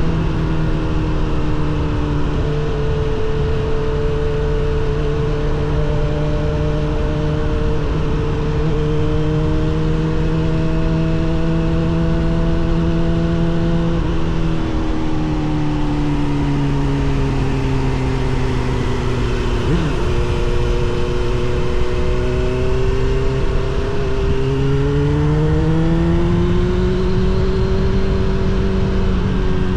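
Suzuki GSX-R750 SRAD's inline-four through a Yoshimura R77 exhaust, cruising at fairly steady revs. The revs ease down after about 14 seconds, dip briefly about 20 seconds in and climb again near 25 seconds.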